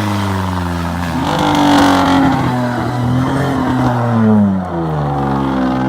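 Jeep Cherokee XJ engine running through a new aftermarket exhaust while driving. The engine note climbs in pitch about a second in, holds, then drops again around four and a half seconds in.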